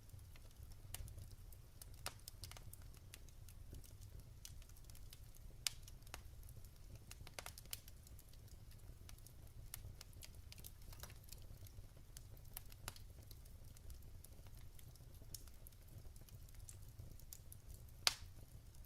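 Wood fire in a fireplace crackling faintly: scattered small pops and snaps, with a sharper pop about six seconds in and the loudest one near the end, over a low steady rumble.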